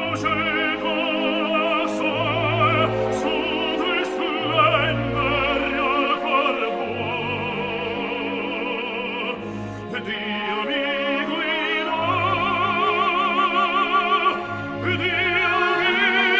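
Opera: a solo voice singing long notes with wide vibrato over an orchestral accompaniment.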